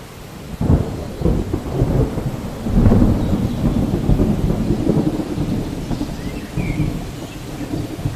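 Thunder rumbling over steady rain, breaking in suddenly about half a second in and swelling to its loudest around three seconds in.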